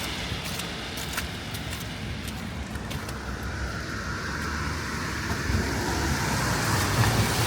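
Road traffic: cars passing on a wet city street, a steady low engine rumble under tyre hiss that swells near the end as a vehicle passes close.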